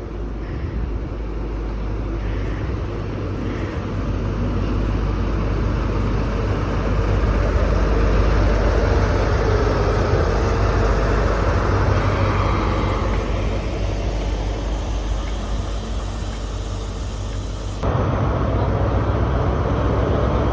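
High Speed Train (HST) diesel running through, its power-car engines and wheels making a steady rumble that grows louder over the first several seconds and then holds. The sound changes abruptly near the end.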